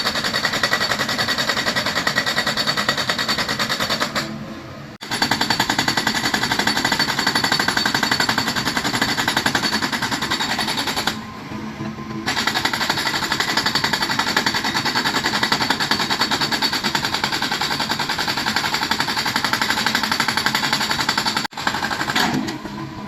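Excavator-mounted hydraulic breaker hammering rock in rapid, steady blows. It stops briefly about 4 s in, about 11 s in, and near the end, leaving the excavator's diesel engine running.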